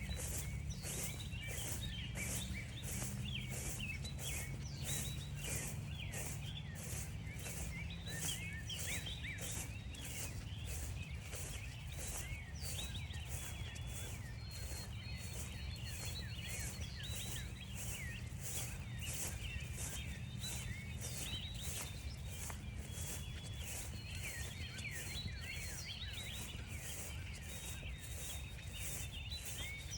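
Footsteps crunching through frost-stiffened grass at about two steps a second, with many small birds chirping and singing throughout, over a low steady rumble.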